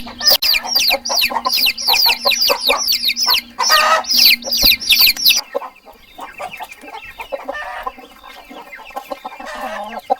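Chickens calling: a dense run of rapid high calls for about five seconds, then quieter, sparser clucking.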